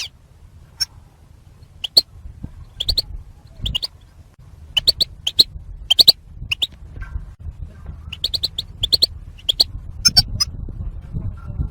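European goldfinches giving their 'battaba' contact calls: short, sharp chirps in quick clusters of two or three, repeated every second or so. These are the flock calls, mostly of females, that keepers play to stimulate a male goldfinch to sing.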